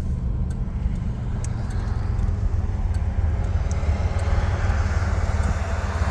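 Cabin sound of a 1986 Buick Regal T-Type on the move: its turbocharged 3.8-litre V6 and the road give a steady low rumble, and road noise grows louder from about two seconds in.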